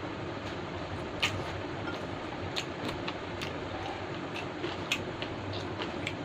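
A person chewing toasted bread with stew, with short crisp crunches and mouth clicks at irregular moments, the loudest about a second in and again near the end, over a steady background hum.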